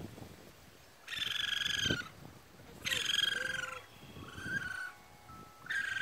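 Baby raccoons crying: high-pitched, slightly falling calls about a second long, repeated four times with short pauses, one of them shorter and lower.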